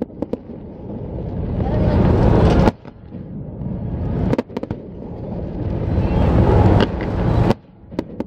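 Fireworks going off across the water: a few sharp bangs. Behind them, a loud rushing rumble swells up three times and cuts off abruptly each time.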